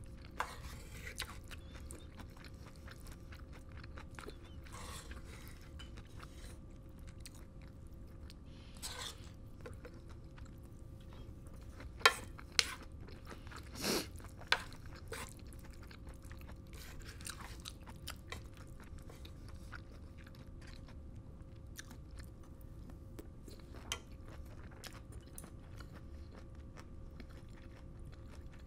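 Close-miked chewing of fried rice, with small mouth clicks throughout and a few sharp knocks of a wooden spoon against the metal pan, loudest about twelve to fifteen seconds in. A faint steady hum sits underneath.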